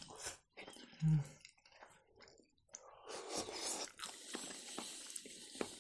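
Close-miked chewing of ramen noodles, with a brief low vocal sound about a second in.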